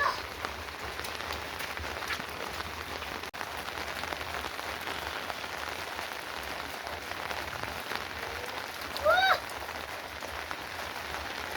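Steady rain falling. About nine seconds in, a short pitched call rises briefly over it.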